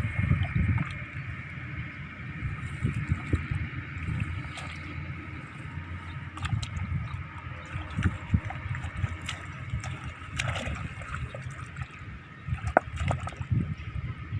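River water sloshing and gurgling unevenly, with scattered small clicks and knocks.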